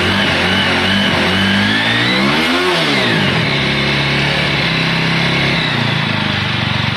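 TVS Apache RTR 200 4V single-cylinder motorcycle engine running after a full rebuild and retiming: it is revved once, climbing about two seconds in and falling back by about three seconds, then settles to a steady idle.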